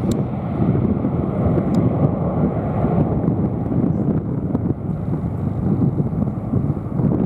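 Strong wind buffeting the microphone: a loud, steady, gusting rumble with no clear pitch.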